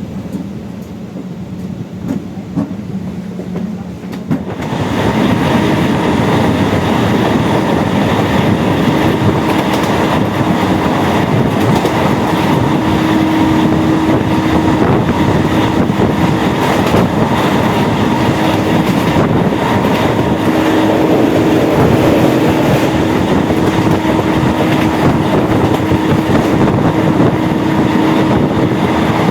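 Train running, heard from on board a MEMU electric multiple unit: steady wheel-and-rail rumble with some clickety-clack and a steady hum. About four seconds in the noise jumps sharply louder and stays loud.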